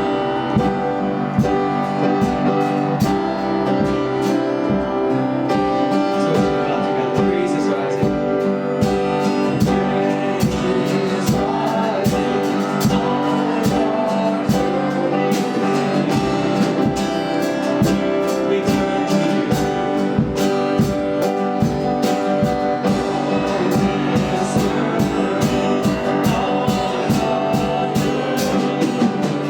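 Live worship band playing an instrumental passage, with strummed guitar keeping a steady rhythm.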